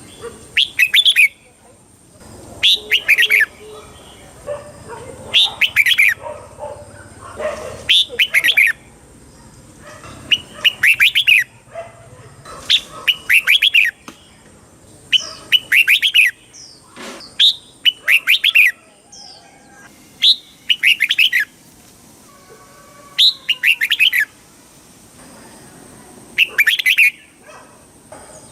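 Red-whiskered bulbul singing: short, bubbly whistled phrases of a few quick notes, repeated about every two to three seconds.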